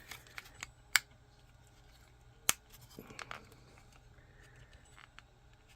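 Hard 3D-printed plastic parts clicking and tapping as they are handled and pressed to snap their tabs together. There are two sharp clicks, about a second and two and a half seconds in, among fainter ticks and rustling.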